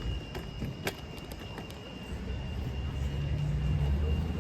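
A vehicle engine rumbling, growing louder about halfway through, with a steady high-pitched tone and a few sharp clicks early on.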